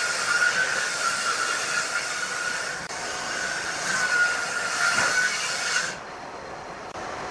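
Wood lathe with a turning tool cutting the spinning workpiece: a steady, slightly wavering shrill tone with a hiss of shavings. The cutting stops abruptly about six seconds in, leaving a quieter, lower hum of the lathe turning on.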